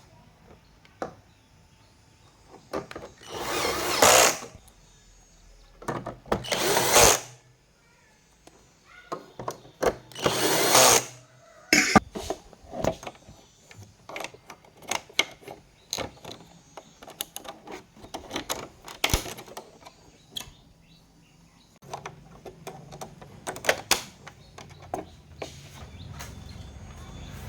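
Small electric screwdriver driving screws in three bursts of about a second each, among many light clicks and knocks of parts being handled.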